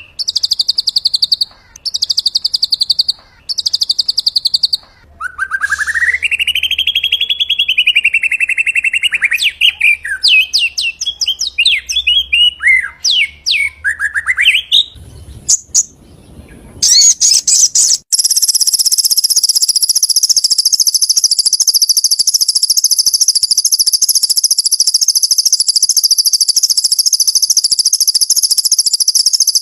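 White-rumped shama song, a training recording: three short buzzy phrases, then a long whistled phrase that rises and falls and breaks into quick varied notes. After a short break with a couple of clicks, a steady high buzzing trill goes on without a pause.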